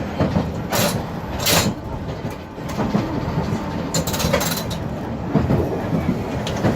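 Nagasaki streetcar running along its tracks, heard from inside the car: a steady motor and wheel rumble with rail clatter. Short hisses come about a second in, again half a second later, and once more about four seconds in.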